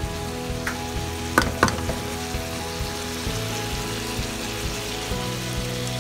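Chicken pieces sizzling as they sauté in a pan, stirred with a utensil, with two sharp clinks against the pan about a second and a half in.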